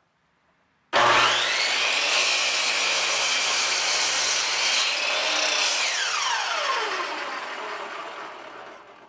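Power saw starting up about a second in with a rising whine, running steadily, then switched off and spinning down, its pitch falling as it fades.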